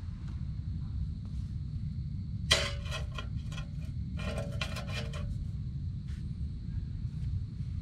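Two runs of light metallic clinking and clatter, like cookware or utensils being handled against a pan, the first about two and a half seconds in and the second about a second later, over a steady low rumble.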